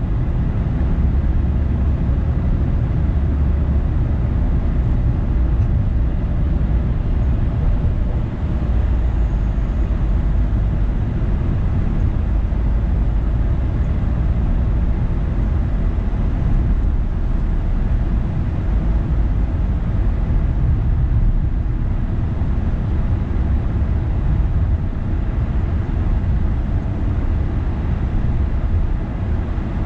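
A car driving: a steady low rumble of engine and tyres on the road that holds even throughout.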